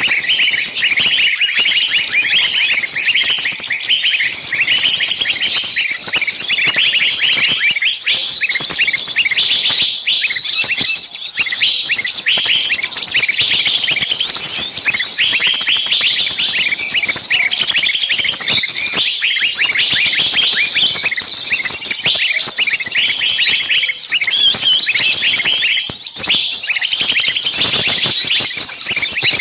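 Dense, continuous chatter of many small songbirds calling at once, rapid high-pitched chirps and trills overlapping without a break. It is a lure recording of noisy, screaming calls of small birds in distress, used to draw small birds in.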